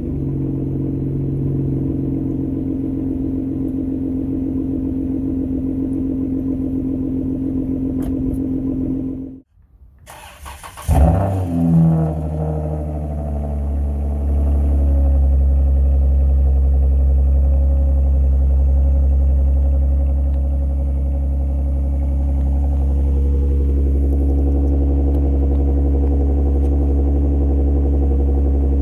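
Dodge Journey's engine running steadily, then cut off about nine seconds in. After a second of silence it is restarted with a brief flare of revs and settles into a steady idle.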